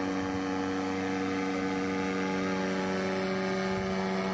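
An engine droning steadily at one unchanging pitch.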